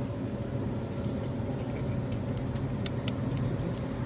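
Steady low hum of supermarket background noise, with a thin steady tone and a couple of light clicks about three seconds in.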